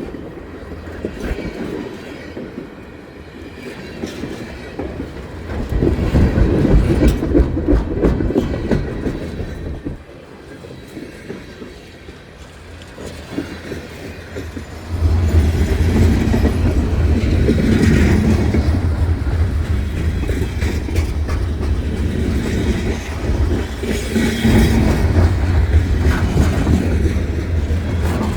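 CSX freight train's cars rolling past close by, their wheels clacking over the rail joints. The rumble grows suddenly louder about halfway through and stays loud.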